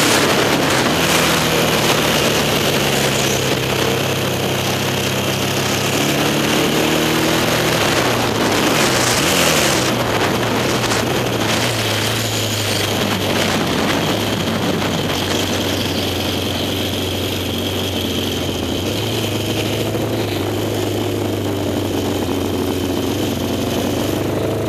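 Yamaha XS650 parallel-twin engine of a sidecar racing outfit running at part throttle, heard from on board with wind rushing over the microphone. The engine note shifts up and down in pitch several times as the revs change.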